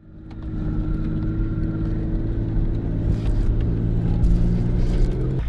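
Truck engine running steadily, fading in at the start.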